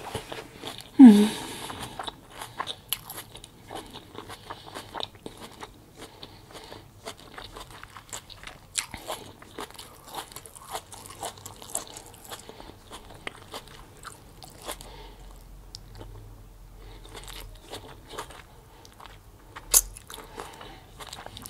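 Close-up chewing and crunching of a taco filling wrapped in romaine lettuce, many small crisp crunches one after another. There is a short hum of the voice about a second in and a single sharp click near the end.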